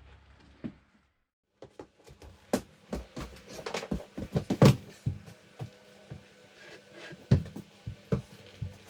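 Irregular knocks, taps and clatters of wooden boards being handled and pushed into place in a tight door-frame extension, some of them sharp and loud.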